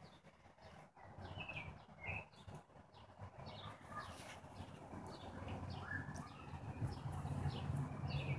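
Small birds chirping in the background: short falling chirps, about two a second, over a low steady hum that grows louder later on.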